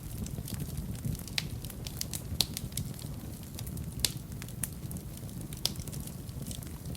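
Wood fire burning in a fireplace: a steady low rumble of flames with irregular sharp crackles and pops, two of them louder, about two and a half and four seconds in.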